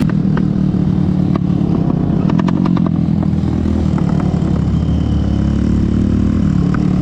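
Small single-cylinder mini-bike engines idling steadily side by side, with a quick run of light clicks about two and a half seconds in.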